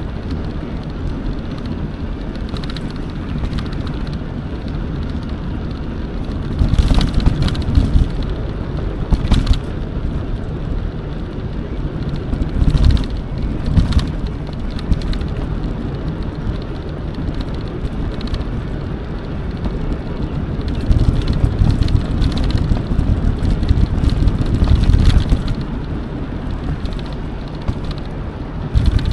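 Riding noise from an electric mountain bike on a forest trail: a steady low rumble that swells in several louder stretches, with a few sharp knocks or rattles along the way.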